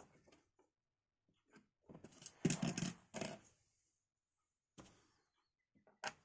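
Hands handling computer parts during assembly: scattered light clicks and taps, a louder cluster of clicks and scraping about two seconds in, then a couple of single knocks.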